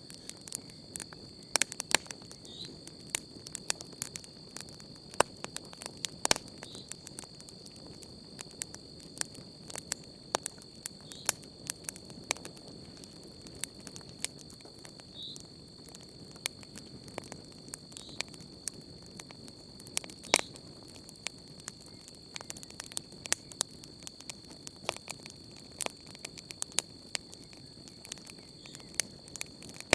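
Wood campfire crackling, with sharp pops and snaps at irregular moments over a steady low hiss of the flames; one of the loudest snaps comes about twenty seconds in. A steady high-pitched cricket trill runs underneath.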